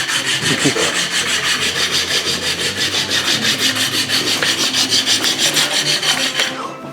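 Quick, even back-and-forth abrasive rubbing strokes on wood or bone, shaping a guitar nut or its slot by hand to fit. The strokes stop just before the end.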